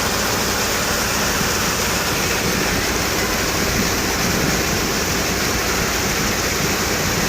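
Rain falling steadily, an even, unbroken hiss of water.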